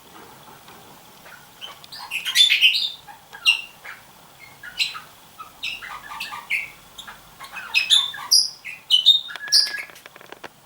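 Red-rumped parrots chirping: a run of short, high chirps and calls starting a couple of seconds in, loudest around two to three seconds and again near the end.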